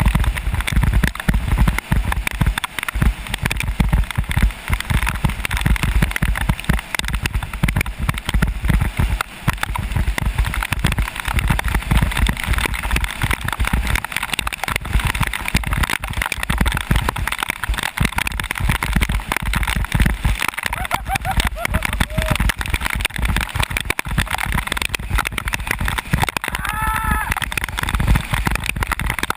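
Wind buffeting the action camera's microphone and wet tyres hissing on a rain-soaked road during a fast bicycle descent, with water sloshing and spraying. Near the end a brief pitched sound rises and falls.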